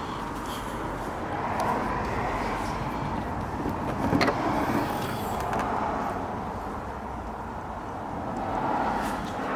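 Cars passing on a road, each a swell of engine and tyre noise that rises and fades, with a sharp knock about four seconds in.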